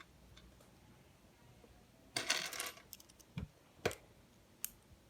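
Small plastic LEGO Technic pieces clattering against each other for about half a second, followed by three separate sharp clicks of parts being handled.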